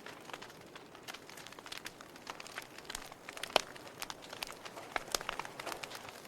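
Wood fire crackling in a fireplace: irregular snaps and pops of varying loudness, with one louder pop a little past halfway.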